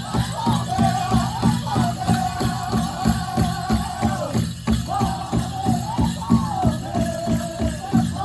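Powwow drum group singing high, wavering lines in unison over a large powwow drum beaten in a steady, fast pulse. The voices drop out briefly about halfway through while the drumbeat carries on, then come back in.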